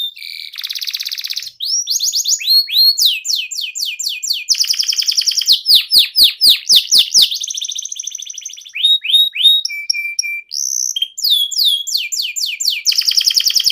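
Canary singing a long, loud song of fast repeated trills and rolls, switching from one run of high sweeping notes to the next, with a few sharp clicks partway through.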